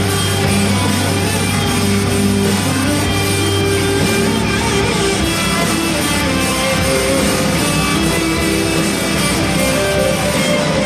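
Live band playing loud, guitar-led rock music with sustained notes.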